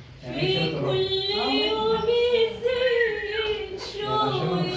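A woman singing in the Arabic style, holding long notes that bend and waver in pitch.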